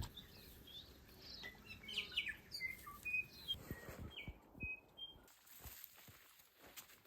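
Forest birds calling: a run of short, high chirps and whistles, some sliding in pitch, lasting a few seconds and then dying away.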